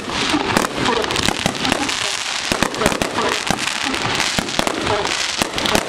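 Winda consumer fireworks going off in a dense finale barrage: many sharp bangs a second, with crackle, keeping up without a break.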